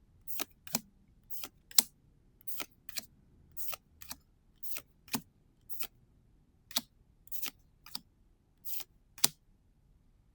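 Trading cards being flipped through one by one: a run of short, crisp card snaps, often in pairs, about one or two a second, stopping shortly before the end.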